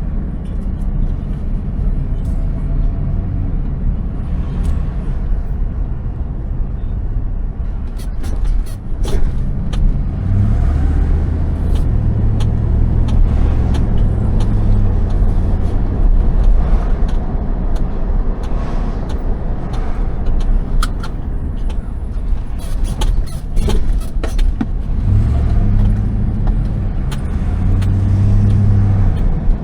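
Car driving, heard from inside the cabin: a steady low engine and road rumble whose engine note rises and falls a couple of times as it speeds up and slows, with a few scattered clicks and knocks.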